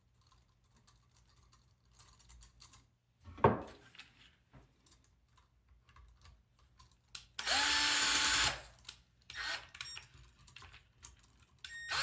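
A small electric motor whirs steadily for about a second, loud against faint clicks of small parts being handled. Earlier there is a single sharp thump.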